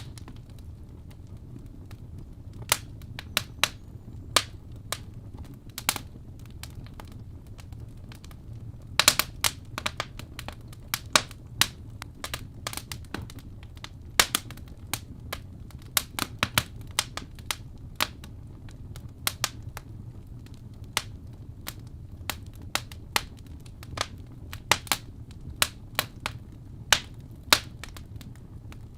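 Wood fire in a fireplace crackling: irregular sharp pops and snaps of burning logs, with a quick flurry about nine seconds in, over a low steady rumble of the flames.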